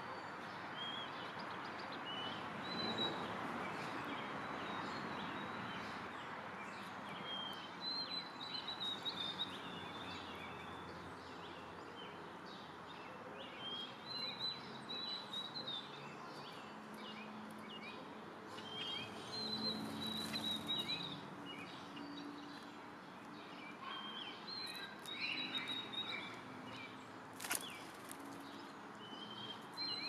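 Songbirds chirping in short, high runs of notes every few seconds over a steady outdoor background hiss.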